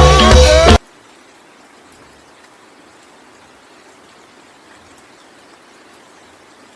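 Music cuts off abruptly under a second in, leaving a steady, faint hiss of falling rain.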